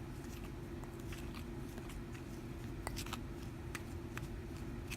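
Light, scattered clicks and scrapes of a utensil stirring a thick flour-and-water mixture in a bowl as it starts to clump into dough, over a steady low hum.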